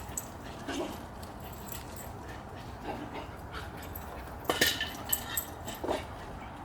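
A dog whimpering, a few short faint cries over a steady low background, the loudest about four and a half seconds in.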